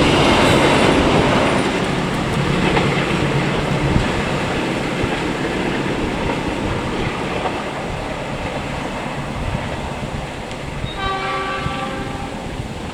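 Train passing on the rails, a loud, steady rumble of wheels that slowly fades. About eleven seconds in, a train horn sounds for about a second and a half.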